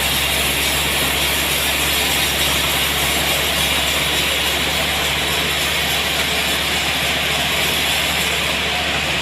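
Sawmill machinery running: a steady, unbroken mechanical noise over a constant low hum.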